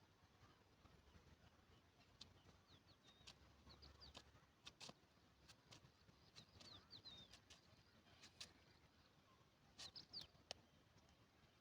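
Near silence with faint, short bird chirps now and then and a few scattered clicks.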